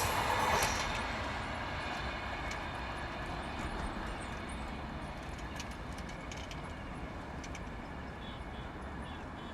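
A train's rumble fading into the distance after it has passed, dying down to a low steady background noise with a few faint clicks.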